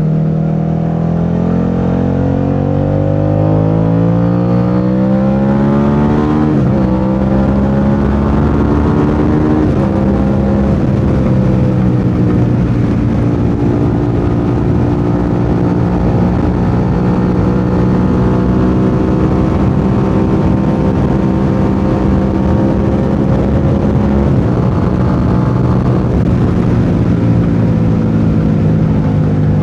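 Suzuki SV650's V-twin engine pulling through the gears. The revs climb for about six seconds and drop at an upshift, rise again to a second upshift about ten seconds in, then hold a steady cruise that eases slightly near the end.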